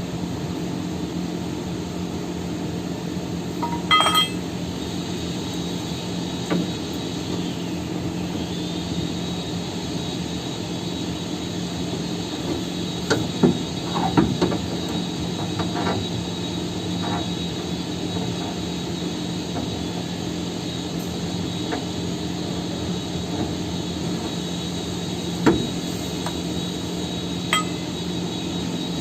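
Hammer blows and clinks on steel, a few scattered strikes over a steady machine hum with a constant high whine that slides up into place about eight seconds in.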